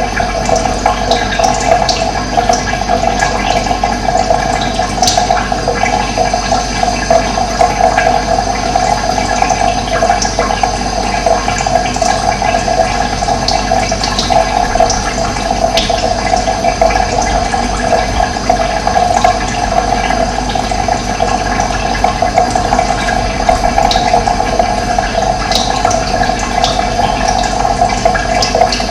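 Running water flowing steadily, an unbroken rushing with no pauses.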